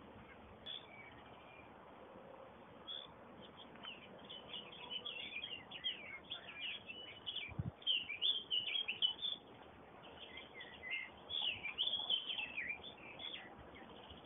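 Small birds chirping and twittering in quick, overlapping runs, thick through the middle with a brief lull, over a faint steady hiss. A soft low thump about halfway through.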